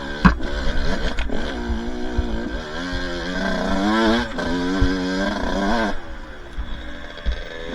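Two-stroke dirt bike engine revving up and easing off again and again on a trail ride, with a couple of sharp knocks in the first second and a half.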